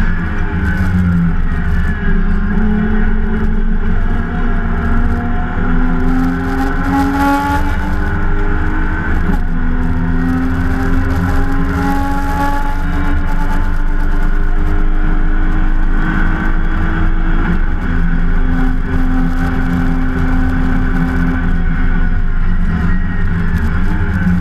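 BMW E30 325i race car's straight-six engine under hard load, heard from inside the car. Its pitch climbs steadily, drops sharply at a gear change about nine seconds in, climbs again, and drops once more near eighteen seconds.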